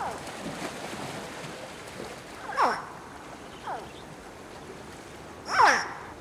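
Baby crocodile alarm calls: short, strident chirps, each falling sharply in pitch. Three sound in turn, a fainter one between the second and the last, which is the loudest.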